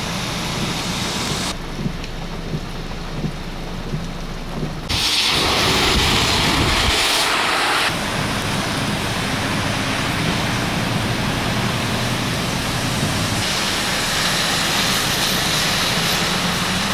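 Heavy rain with idling and passing vehicle engines in flooded streets, in several short shots cut together. About five seconds in, a louder rushing noise lasts for about three seconds.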